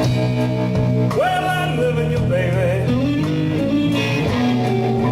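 Slow blues band music: a guitar lead with sliding, wavering notes over steady bass and sustained chords.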